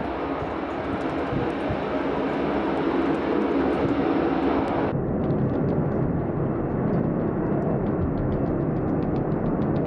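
Steady rumble of an Airbus A320's jet engines running. About halfway through, the sound abruptly loses its treble while the low rumble goes on.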